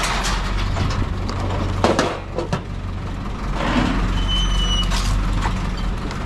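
A heavy engine running steadily, with scattered knocks and clanks and a short high beep about four and a half seconds in.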